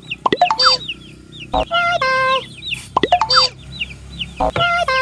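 Chicks peeping over and over, quick falling chirps several times a second. Over them, cartoon-style sound effects: four quick upward swoops, each with a short run of stepped electronic notes.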